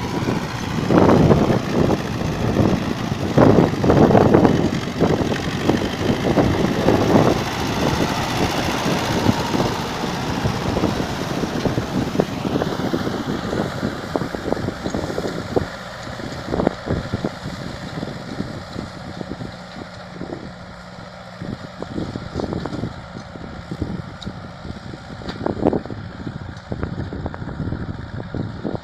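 Ford 6600 tractor's diesel engine running while pulling a disc harrow, with strong wind buffeting the microphone, heaviest over the first several seconds.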